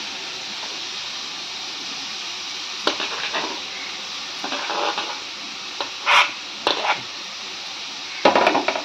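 Grated carrot swept by hand off a plastic chopping board into hot ghee in a nonstick pan: a steady hiss, then short bursts of sizzling and scraping from about three seconds in.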